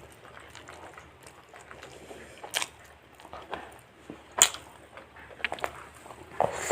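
A person chewing and biting into fried chicken, with irregular wet smacks and crunchy clicks. A sharp click comes at about two and a half seconds and a louder one at about four and a half seconds.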